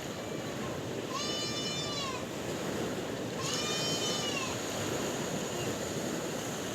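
Sea waves washing steadily, overlaid by two drawn-out animal calls, each about a second long, rising and then falling in pitch.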